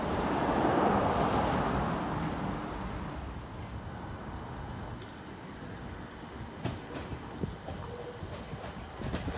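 Electric passenger train rolling along the track, its rushing wheel noise loudest about a second in and then fading as it moves away. This is followed by a quieter rumble with a few sharp clicks from the rails as another train approaches.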